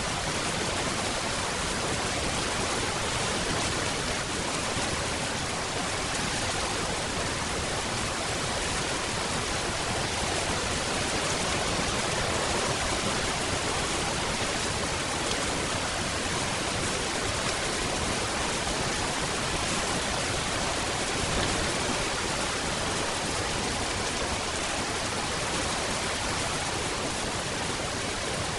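Steady rain falling, an even hiss with no single drops or splashes standing out and no change in strength.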